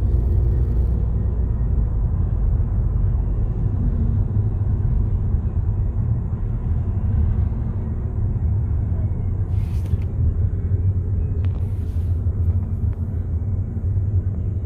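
Steady low road and engine rumble heard inside the cabin of a moving 2013 Volkswagen Jetta. Two brief hisses come in late on.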